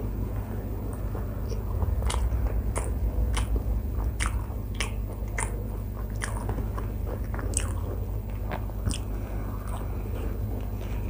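Close-miked chewing as a woman eats soft paratha with potato and chickpea curry by hand. Irregular sharp, wet smacks and clicks come thickest between about two and nine seconds in.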